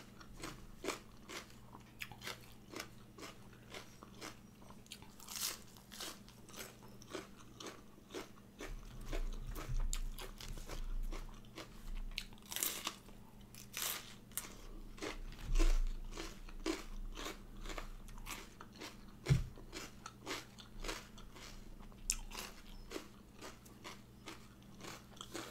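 Crunching and chewing of crisp raw vegetables, lettuce and bitter melon, as a steady run of small crisp crunches with a few louder bites.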